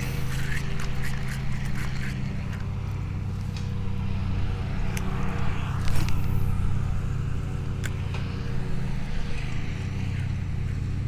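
A motor running with a steady hum that drops slightly in pitch about two seconds in, with scattered light clicks and a brief louder rustle about six seconds in.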